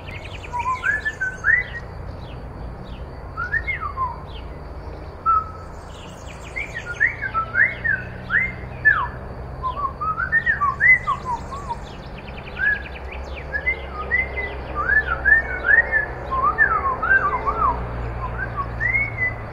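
Songbirds singing: many short whistled notes sliding up and down, scattered through the whole stretch, with bursts of faster, higher trilling now and then. A steady low hum runs underneath.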